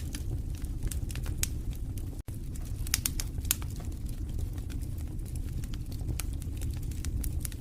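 Wood fire burning in a fireplace: irregular sharp crackles and pops over a steady low rumble of the flames, with a split-second dropout about two seconds in.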